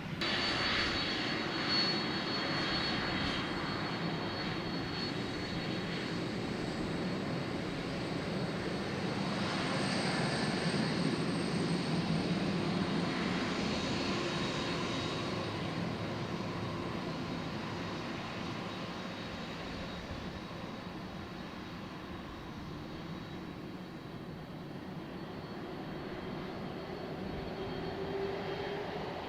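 Jet airliner taking off at takeoff thrust: a broad engine roar with a high whine early on, swelling to its loudest about a third of the way in, then fading steadily as the aircraft climbs away.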